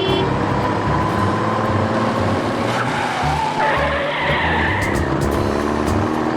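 Vehicle sound effect: an engine running hard with tyres skidding, with a wavering squeal in the middle, over background music with a steady low beat.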